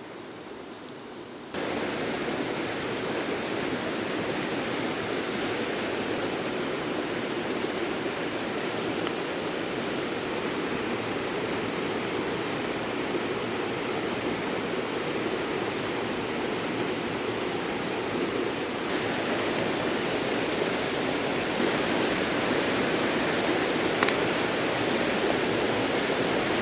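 River water rushing steadily. It steps up louder about a second and a half in.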